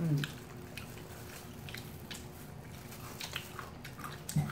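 Close-up chewing of fried chicken, with small crisp clicks at an uneven pace. A brief low voice sound comes at the very start and again near the end.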